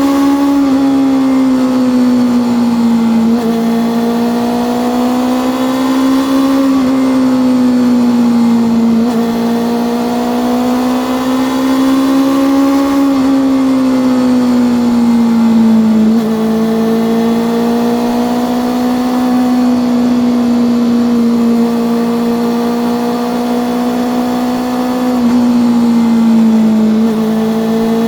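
Honda CB400SF inline-four engine and exhaust running at a steady cruise, its pitch slowly rising and easing as the throttle is varied, with a few sudden small dips in revs.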